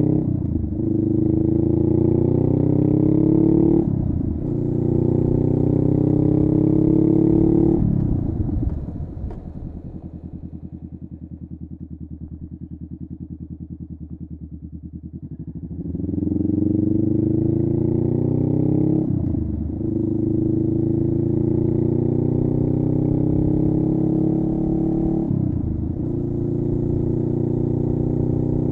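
Honda Rebel 500's parallel-twin engine through a Vance & Hines upsweep exhaust, accelerating with revs climbing and breaking at each gear shift. About eight seconds in it drops to a low, evenly pulsing putter near idle, then pulls away again about halfway through, with more gear shifts.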